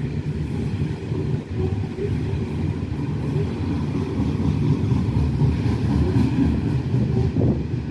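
Loaded coal train passing, a steady low rumble of the train rolling along the track.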